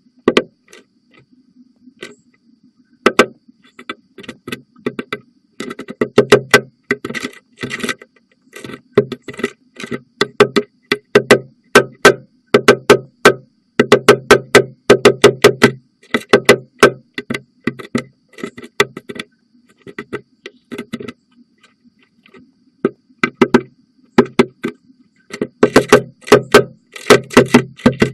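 Downy woodpecker pecking and chiseling at the wood of a nest box's entrance hole, close to the microphone: runs of sharp, loud taps in quick succession, broken by short pauses, starting a few seconds in.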